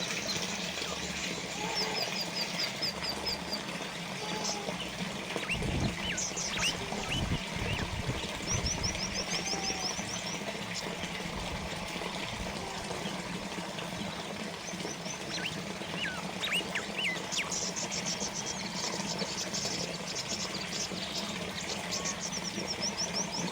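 Water trickling and splashing steadily from a small fountain, with small birds chirping in short rapid trills and quick single chirps several times. A brief low rumble comes about six to eight seconds in.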